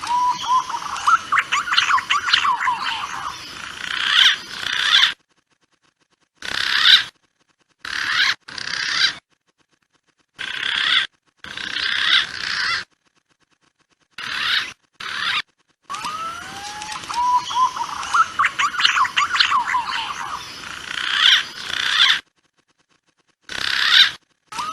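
Recorded calls of punai (green pigeons) played as a hunting lure: a few rising whistled notes that break into a quick run of higher notes, then short snatches of call that cut off abruptly into dead silence. The same edited sequence plays again in the second half, as a loop.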